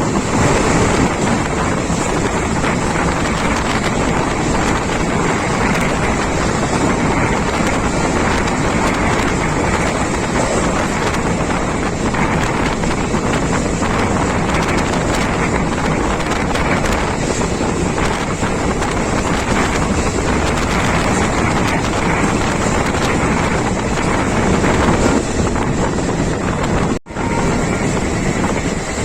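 Express passenger train running at speed, a loud, steady noise of the moving coaches with heavy wind on the microphone; the sound breaks off for an instant near the end.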